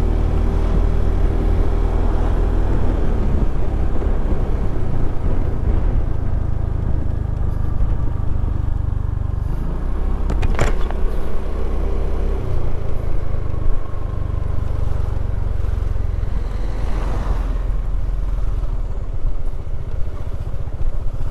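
Motorcycle on the move: the engine runs under a steady low rumble of wind and road, its note shifting about halfway, with one short sharp click about ten seconds in.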